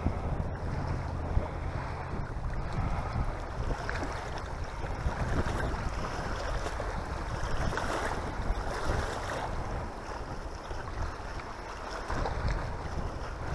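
Wind buffeting the microphone in an uneven low rumble, over the wash of wind-driven lake water.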